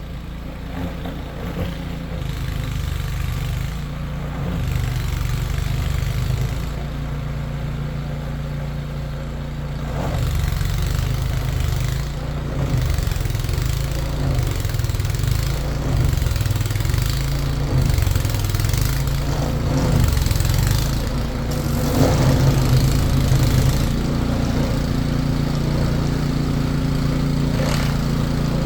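An engine running steadily, its note shifting up and down a little every few seconds.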